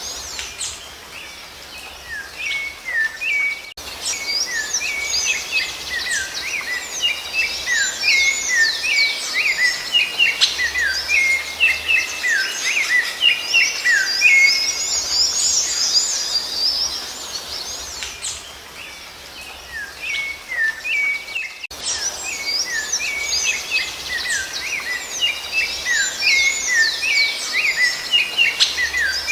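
Songbirds singing in a dense chorus of quick chirps and short downward-sliding whistles, thinning out twice for a few seconds.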